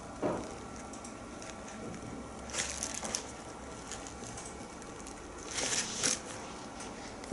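A few soft rustles and brushes from a leather sneaker being handled and turned, over a quiet room background: once near the start, around the middle and again after about five and a half seconds.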